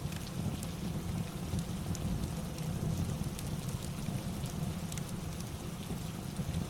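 Steady rain with a low rumble beneath it, and scattered sharp crackles from a fireplace.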